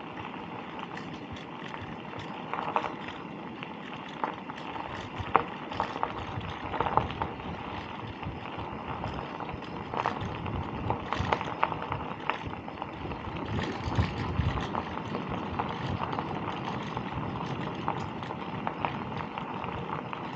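Bicycle riding along a path: steady tyre-rolling noise with irregular rattles and knocks from the bike.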